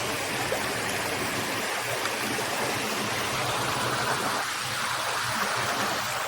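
A stream running steadily: a continuous rush of flowing water.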